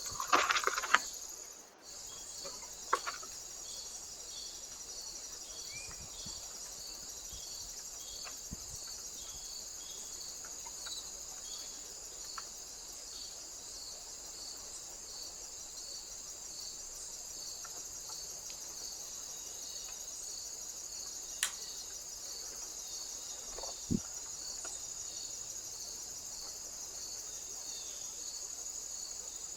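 Insects, crickets or bush-crickets, chirping steadily: a constant high trill with a regular pulsed chirp repeating about once a second. A few brief knocks and rustles cut in, the loudest in the first second.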